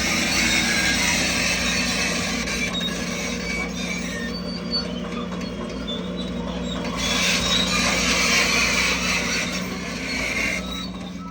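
Crawler bulldozer's diesel engine running steadily, with high metallic squealing from its steel tracks; the squeal drops away for a few seconds in the middle, then returns.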